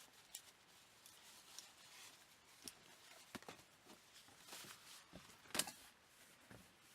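Faint, scattered small clicks and rustles of objects being handled, with one sharper click about five and a half seconds in.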